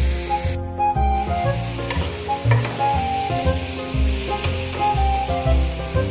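Chicken pieces sizzling in a steel pot as a wooden spoon stirs them, with background music of held notes over a bass line. The sizzling hiss drops out briefly about half a second in.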